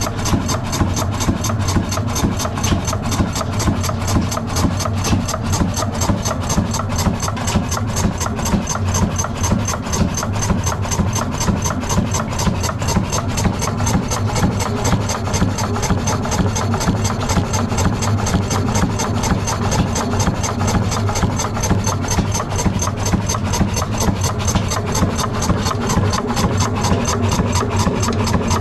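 Ruston Hornsby 60 hp diesel engine running steadily with a fast, even exhaust beat.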